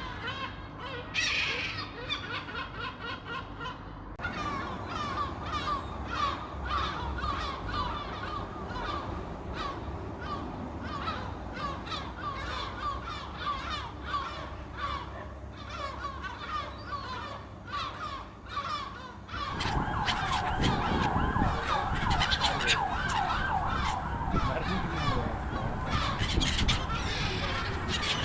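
A flock of seagulls calling, many short overlapping cries one after another. About two-thirds in the calling grows louder and a low rumble joins it.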